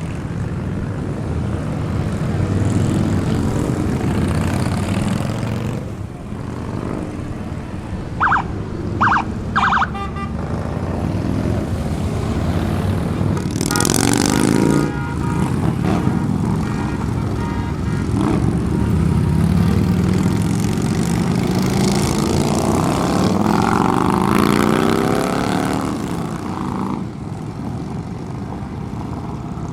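Motorcycles riding past in a steady stream, their engines rising and falling in pitch as they go by. There are three short horn beeps about eight to ten seconds in.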